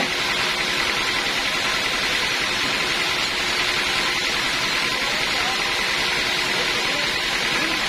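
Sawmill band saw running steadily: a constant loud whir with a faint high steady tone, unchanging throughout.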